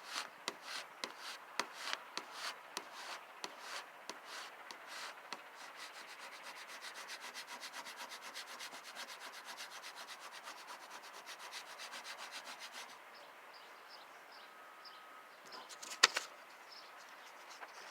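A vinyl decal's transfer tape being rubbed down onto window glass, a scraping rub. Uneven strokes at first, then a run of quick, even strokes lasting several seconds. A single sharp tap comes near the end.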